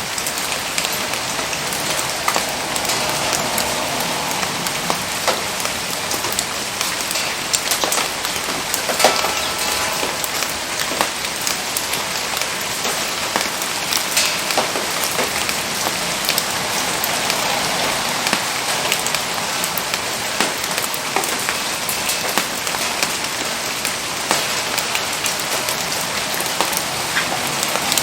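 Steady rain falling on surfaces around a wood campfire, with scattered sharp pops and crackles from the burning wood.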